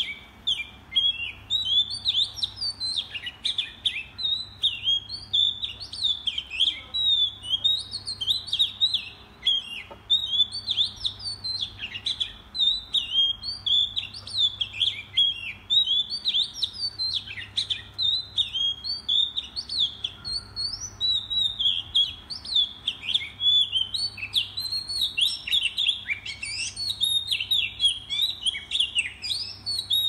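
Small songbird singing almost without pause: rapid, varied high chirps and trills. A faint steady low hum runs beneath.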